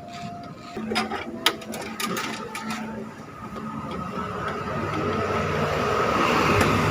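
Sharp metallic clicks and knocks of hand work on a car door in the first few seconds, the loudest about a second and a half in. Then a vehicle's sound grows steadily louder toward the end.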